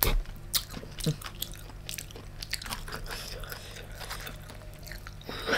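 Close-up chewing and biting of giant black tiger prawn meat, with irregular small crunches and clicks.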